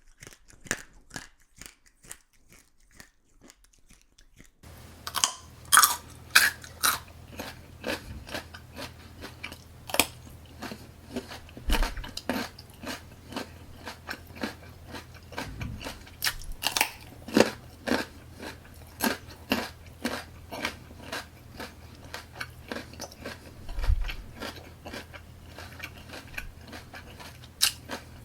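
Close-up eating sounds: crunchy bites and chewing, a rapid run of sharp crunches. About four and a half seconds in, a louder take starts with a low steady hum beneath the crunching.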